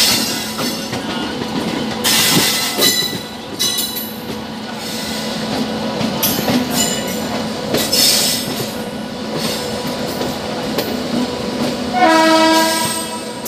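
Riding in a moving passenger train coach through a station yard, heard from the open door: a steady rumble of wheels, clattering over rail joints and points, with high flange squeals now and then. About twelve seconds in, a locomotive horn sounds for about a second.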